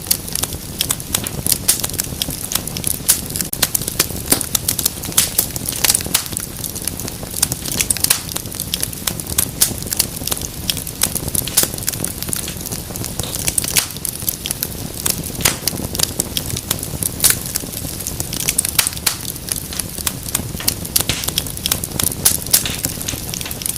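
Wood fire crackling in a fireplace: irregular sharp snaps and pops over a low, steady rumble of burning.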